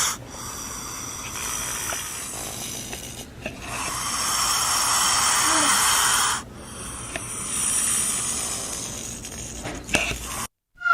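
An animal making long, breathy hissing sounds in several stretches. The loudest lasts about two and a half seconds near the middle.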